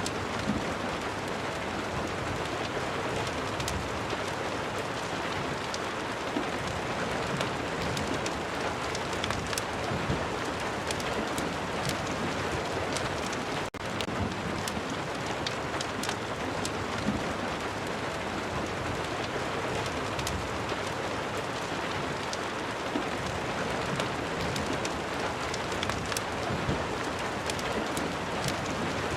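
Steady rain ambience: an even hiss of falling rain dotted with many sharp ticks of drops. The sound drops out for an instant about halfway through.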